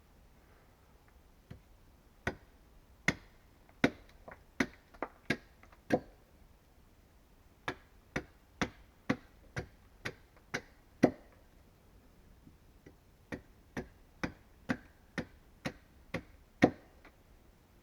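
A hand tool striking wood again and again with sharp knocks, in three runs of about seven or eight blows, one to two a second, with short pauses between the runs.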